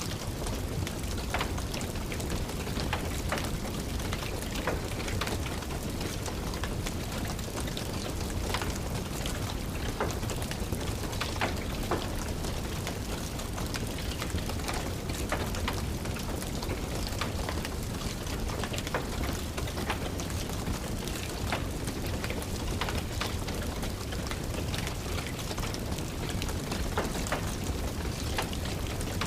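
Steady rain patter with a low rumble, over irregular crackles and pops from a wood fire burning in a fireplace.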